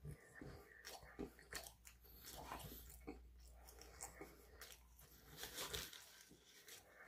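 A person chewing a mouthful of grilled shawarma wrap: faint, irregular smacking mouth sounds.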